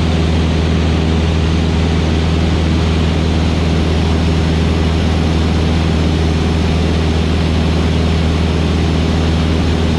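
Van's RV-8's piston engine and propeller droning steadily in level flight, heard from inside the cockpit as a constant low hum.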